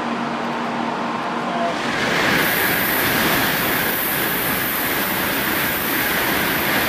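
Shinkansen bullet train moving past along the platform: a steady rushing hiss of wheels and air that swells about two seconds in and holds.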